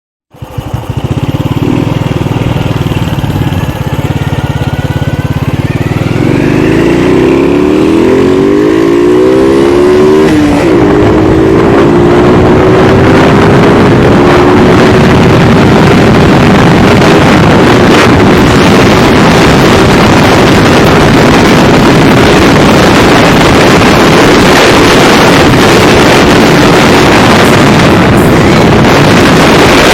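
Vehicle engine accelerating hard, its pitch climbing for several seconds. About ten seconds in there is a break like a gear change, after which it holds a steady high pitch under a growing rush of noise.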